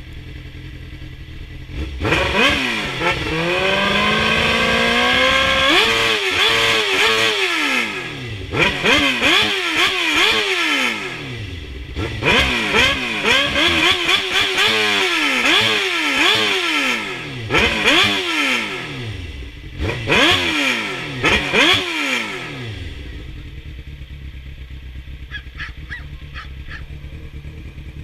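2003 Suzuki GSX-R750 inline-four through a Yoshimura aftermarket exhaust, idling, then revved. First comes one long climbing rev, then a string of quick throttle blips, each rising and falling, before it settles back to idle about five seconds from the end.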